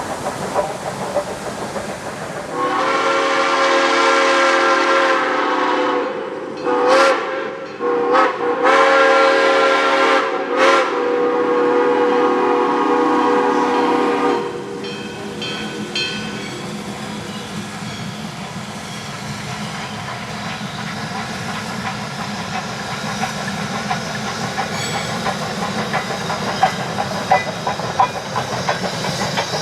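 Steam locomotive whistle on GSMR #1702 blown in one long chord-like blast of about twelve seconds, swelling and bending in pitch three times as it is quilled. The train then runs on with a steady rumble and wheel clatter on the rails.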